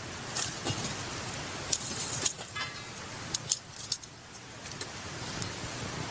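Wood campfire crackling: irregular sharp pops and snaps over a steady hiss, with the loudest pops coming together about three and a half seconds in.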